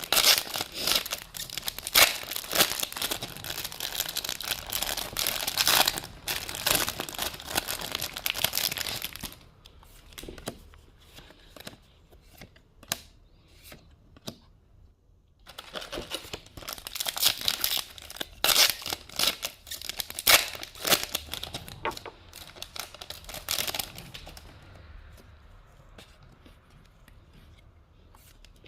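Plastic wrapper of a vintage Pokémon booster pack crinkling and tearing as it is opened. There are two long spells of dense crackling separated by a quieter pause in the middle, and the sound fades out near the end.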